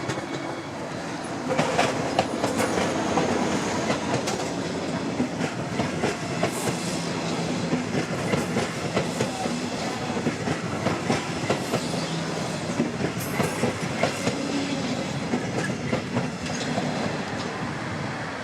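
Train passing, its wheels clattering over the rail joints in a run of repeated clacks.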